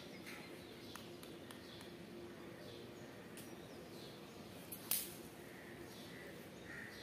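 Faint outdoor ambience with scattered short bird chirps and a steady low hum, and one sharp click about five seconds in.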